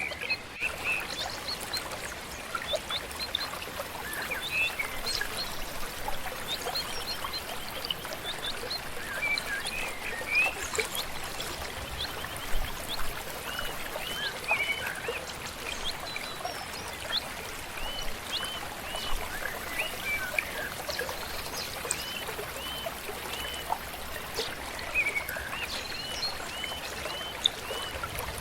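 A flowing river or stream, a steady rush of water, with many birds chirping and singing over it: short repeated arched notes and scattered calls throughout.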